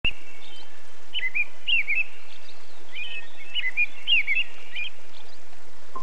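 Small songbirds chirping in quick clusters of short rising-and-falling notes, over a steady background hiss.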